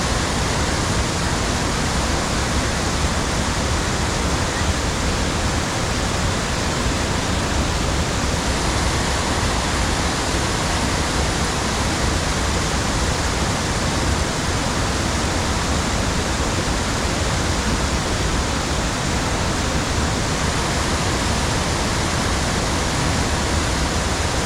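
Steady rushing of creek water, an even noise unchanged throughout.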